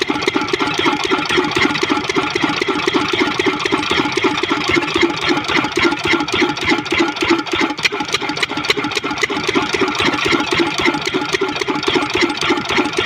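12 hp engine running steadily after starting, with an even, rapid firing beat.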